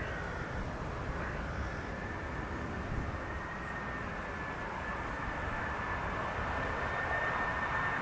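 Jet airliner engines running: a steady high whine over a broad rushing noise. A rapid, high, pulsing sound joins about halfway through.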